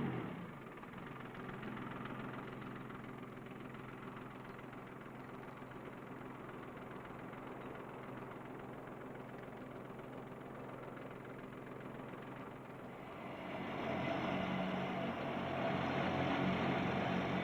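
Ford compact tractor's three-cylinder diesel engine running steadily, growing louder near the end.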